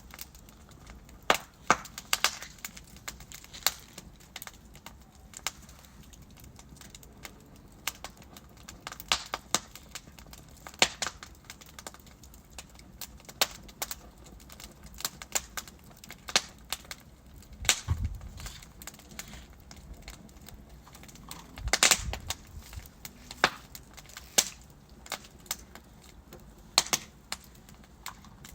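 Wood fire of burning logs crackling, with irregular sharp pops and snaps over a low hiss; a couple of louder pops stand out near the middle and about three quarters of the way in.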